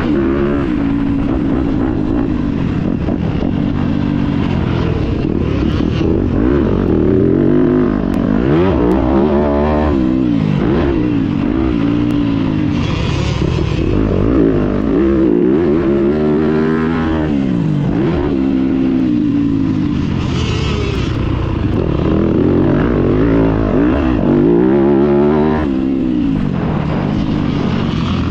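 Dirt bike engine revving up and easing off again and again, its pitch climbing and falling every few seconds.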